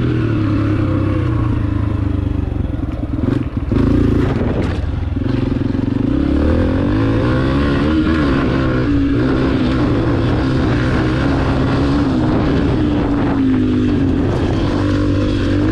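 Small four-stroke single-cylinder pit bike engine running under throttle, its pitch rising and falling as the rider works the throttle, with a brief drop and a clatter about four seconds in.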